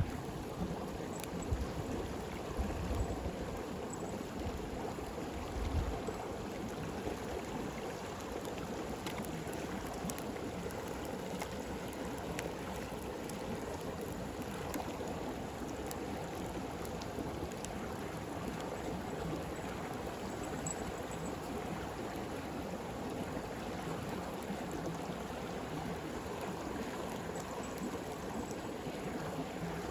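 Flowing stream rushing steadily, with sparse faint crackles and pops of a wood campfire scattered throughout. A few brief low rumbles come in the first few seconds.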